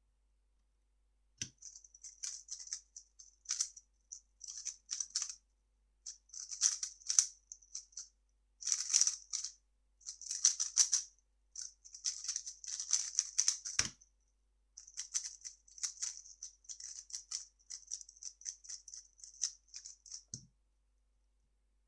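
A 3x3 speedcube being turned fast: bursts of crackly plastic clicking and rattling, in quick clusters with short pauses between them. Three dull knocks come about a second and a half in, about 14 seconds in, and near the end.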